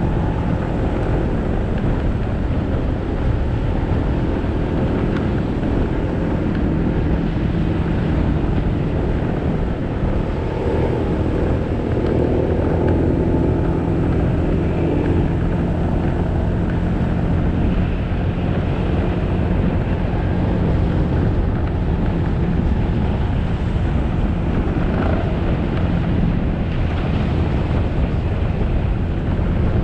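Motorcycle engine running at a fairly steady pitch while riding, with road noise.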